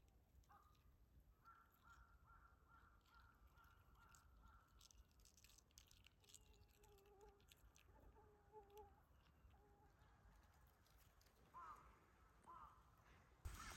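Near silence with faint bird calls in the background: a run of quick repeated notes, then a few short calls, and two brief rising calls near the end, with a few soft clicks.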